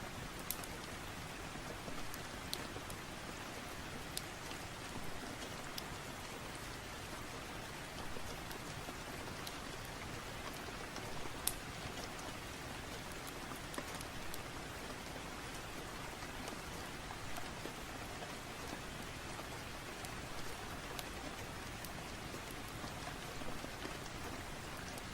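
Steady rain falling, an even hiss with scattered sharp clicks and pops every second or two.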